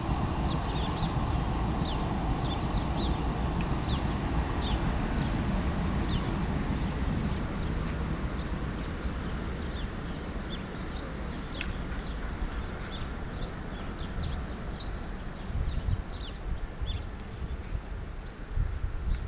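Small birds chirping, many short high falling calls scattered throughout, over a steady low rumble. A few louder knocks come near the end.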